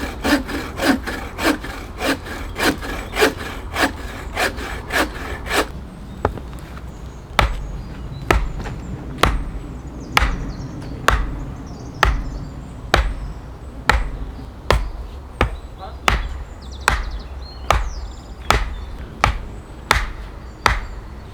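Hand saw cutting through a log. Quick strokes come about three a second for the first six seconds; after a brief pause they become slower, heavier strokes about once a second.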